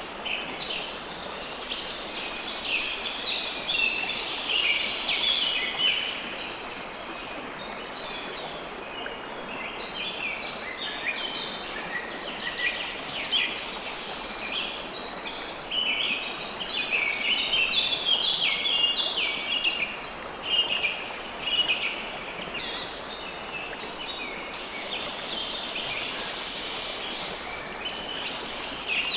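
A river flowing steadily under many birds chirping rapidly, the birdsong denser at times and thinner at others.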